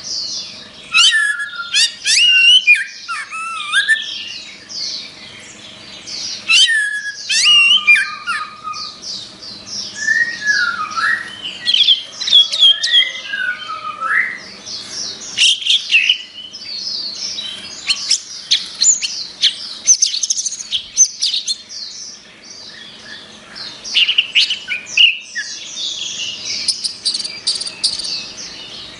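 Orange-headed thrush (anis merah) singing a long, varied song of quick whistles, chirps and trilled notes, delivered in loud phrases broken by short pauses.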